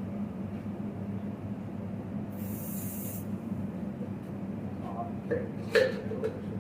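Aerosol spray can of varnish hissing out in one short burst of about a second, a little over two seconds in, coating an alternator's stator winding, over a steady low hum. Near the end come a few light clicks and one sharp knock, the loudest sound here.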